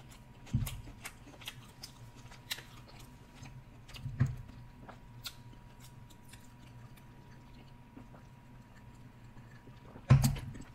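Close-miked eating sounds: chewing of seafood with small wet mouth clicks, and a few low thumps, the loudest near the end. A faint steady high tone runs underneath.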